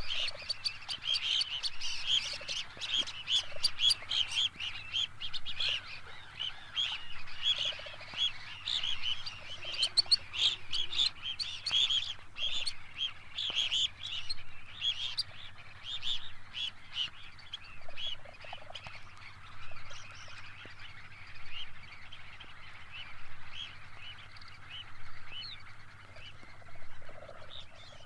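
Red phalarope (grey phalarope) calling: many short, high calls in quick succession, thinning out after about halfway.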